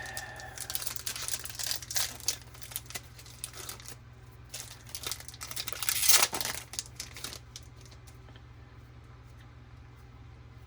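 Plastic trading-card pack wrapper being torn open and crinkled, with dense crackling rustle that stops about seven seconds in.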